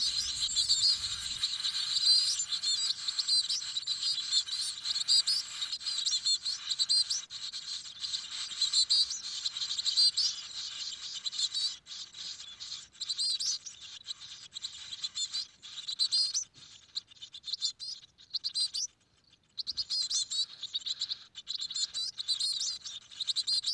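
Coal tit nestlings cheeping continuously in high, thin chirps, with scattered clicks of movement in the nest and a brief lull about three quarters of the way through.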